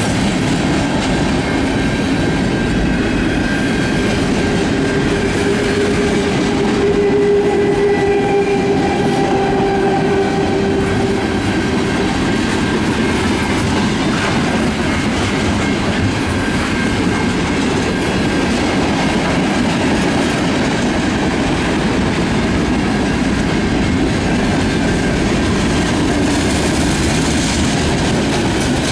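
Freight cars of a mixed manifest train (tank cars, hoppers, flatcars) rolling past at close range: a steady heavy rumble with wheels clattering over the rail joints. A thin steady tone rings above the rumble for several seconds a few seconds in.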